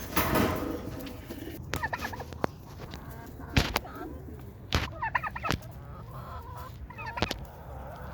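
Chickens clucking in short clusters of quick calls, three times, with several sharp knocks or taps in between and a brief rush of noise at the start.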